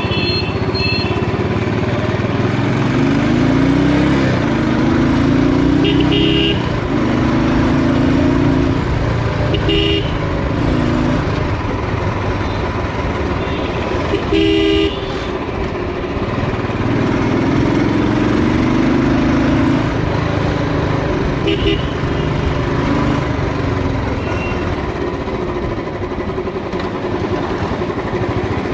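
Royal Enfield motorcycle engine running on the road, its pitch rising again and again as it accelerates through the gears. Short horn toots sound about 6, 10, 14 and 21 seconds in; the one near the middle is the longest and loudest.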